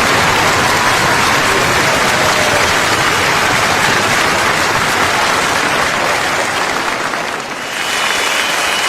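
Large crowd applauding steadily, a dense wash of clapping; it drops briefly about seven and a half seconds in, then carries on.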